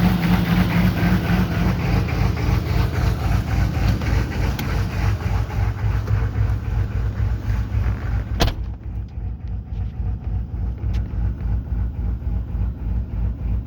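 GMC's 6.5-litre V8 turbo diesel idling with the lumpy, rhythmic lope of an aftermarket lope tune. A single sharp knock comes about eight seconds in, after which the engine sounds duller.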